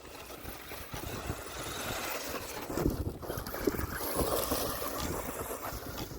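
Wltoys 124006 Desert Racer RC truck driving over rough ground, its electric motor and tyres making an irregular, surging noise, with wind buffeting the microphone.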